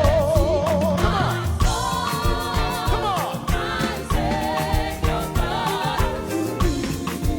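Live gospel band music: a held, wavering melody line over a steady drum beat and bass.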